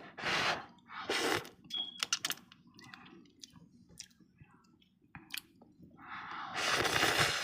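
Close-up eating sounds of someone having ramen: chewing with many small, sharp clicking mouth and utensil sounds. Near the end there is a long breathy noise lasting about a second and a half.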